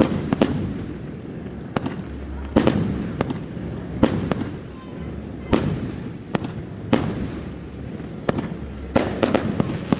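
Aerial fireworks bursting: about a dozen sharp bangs at irregular intervals, each trailing off in a rolling echo.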